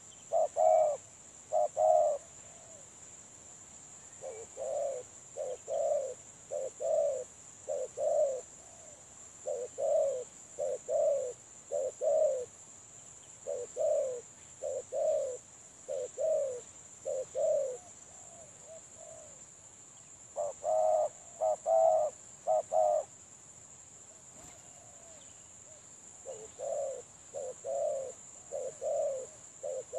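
Spotted doves cooing in repeated short phrases, with louder, closer bouts near the start and about two-thirds through and fainter phrases in between: a decoy dove calling wild doves in toward a trap.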